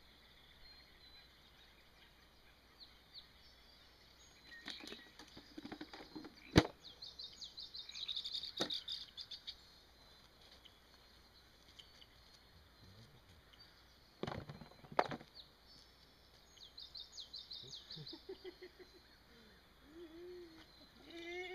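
Small bird singing: several runs of rapid, high trilled notes. A few sharp clicks and knocks come in between, the loudest a single sharp click about six and a half seconds in.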